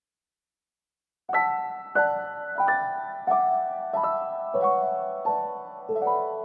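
Background piano music. It starts after about a second of silence, with notes or chords struck roughly every two-thirds of a second, each ringing and fading before the next.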